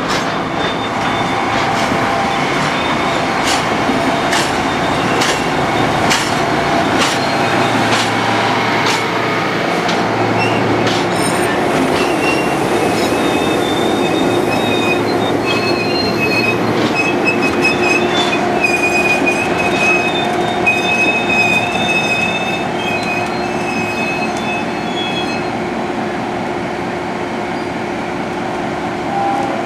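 A train rolling slowly on jointed track. Its wheels click over the rails for the first several seconds, then give a high, wavering flange squeal from about twelve seconds in until near the end.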